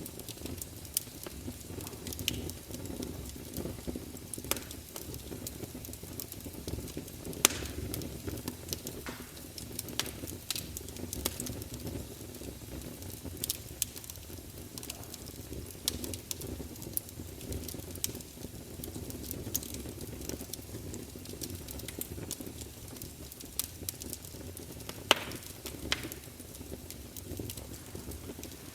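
Wood campfire burning: a steady low rumble of flames with frequent sharp crackles, and a few louder pops, one about seven seconds in and two near the end.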